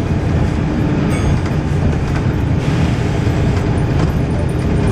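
Volvo B7RLE bus with its six-cylinder diesel engine running under way, a steady low rumble, with a short burst of air hiss from the pneumatic system about two and a half seconds in.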